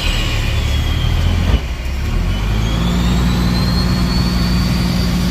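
An engine running steadily. It changes briefly about a second and a half in, then settles to a steady hum with a faint high whine above it.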